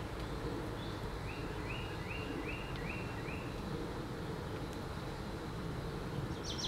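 Backyard ambience of steady low rumble, with a bird calling a quick series of about six short, evenly spaced notes about a second in.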